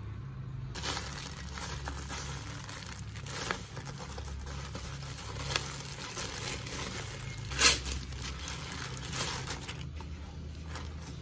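Thin plastic mailer bag crinkling as it is handled and opened and a wrapped item is pulled out. A few short, sharp louder crackles come through, the loudest a little under eight seconds in.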